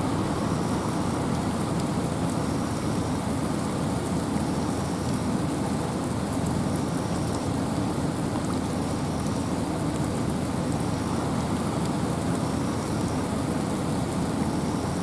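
Steady rain falling in a forest, with a constant low rumble of wind under it. A faint short high tone recurs about every two seconds.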